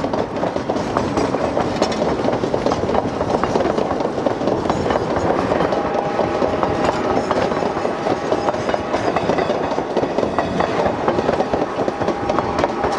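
Durango & Silverton narrow-gauge train passing close by, its cars clattering and clicking over the rail joints in a steady, dense rattle. A faint steady high tone joins about halfway through.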